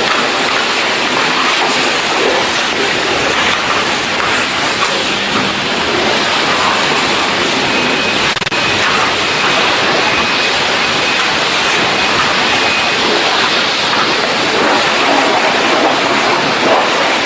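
Car wash water jets spraying: a loud, steady rushing hiss, with a faint high whine from about eight seconds in lasting some five seconds.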